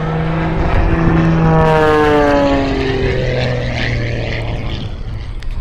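Edge 540 aerobatic plane's propeller engine passing by low and fast, its pitch sliding down as it goes past, then fading away.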